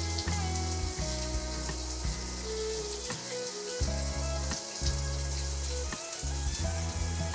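Vegetables sizzling as they stir-fry in a non-stick pan, a steady hiss, under background music.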